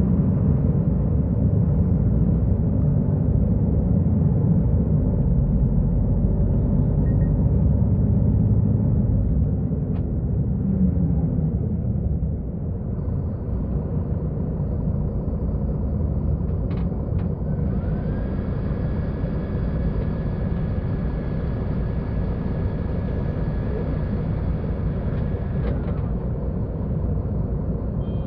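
Mercedes-Benz O-500U Euro 5 city bus's diesel engine running with a steady low rumble, easing off about ten seconds in. A high whine rises partway through, holds for several seconds, then falls away near the end.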